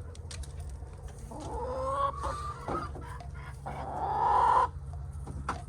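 A chicken giving two drawn-out calls: a rising call about a second and a half in, then a louder, held call near four seconds.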